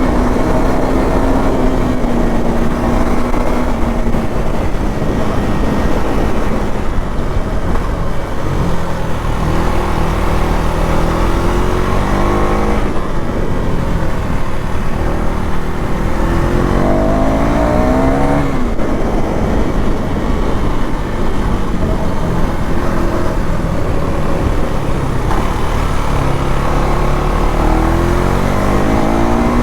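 KTM Duke 390 Gen 3 single-cylinder engine running through its stock exhaust under way. The engine pitch rises in several climbs and drops sharply once about 18 seconds in.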